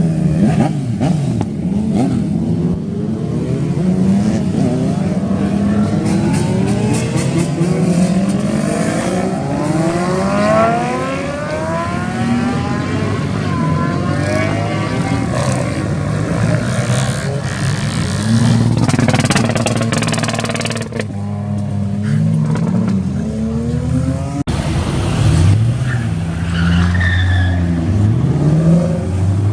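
Car engines revving and accelerating, their pitch rising and falling over and over, with more than one engine sounding at once.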